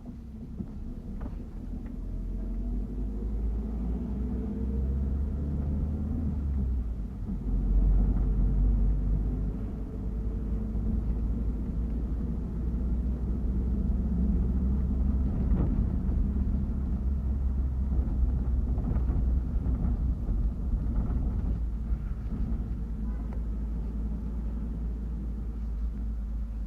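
Steady low rumble of a bus's engine and road noise heard from inside the moving bus, its pitch shifting slowly and swelling about eight seconds in, with a few faint rattles.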